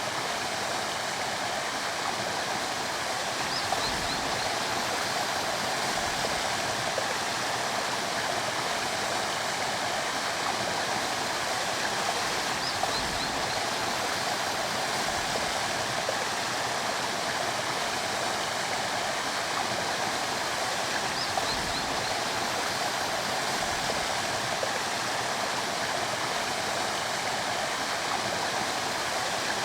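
A stream running over rocks, a steady, unbroken rush and babble of flowing water. Faint short high chirps sound about three times, several seconds apart.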